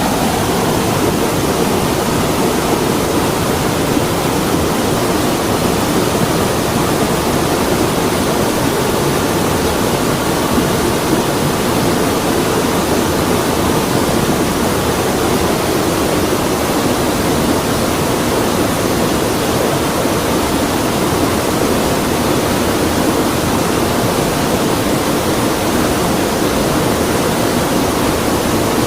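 A creek flowing, a steady, even rush of running water.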